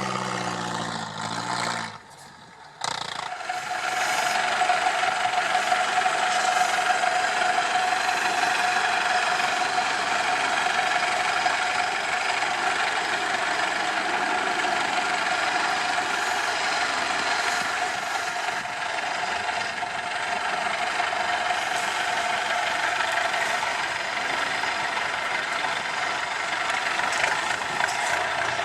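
IFA W50 trial truck's diesel engine running steadily. The sound briefly drops out about two seconds in, then carries on.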